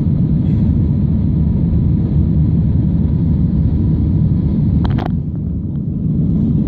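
Airliner cabin noise on a Wizz Air Airbus A320-family jet: a steady low rumble from the engines and the airflow. A brief cluster of clicks comes about five seconds in.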